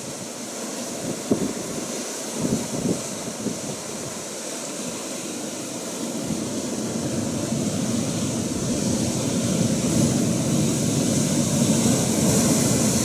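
Atlantic surf and wind, with gusts buffeting the microphone in the first half; the wash of the sea swells gradually louder toward the end.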